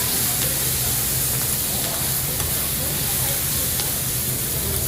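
Food sizzling on a hot grill pan, a steady hiss, over a steady low hum.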